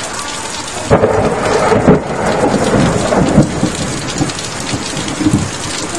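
Heavy thunderstorm rain pouring steadily, with a sudden thunderclap about a second in that rumbles on for a couple of seconds.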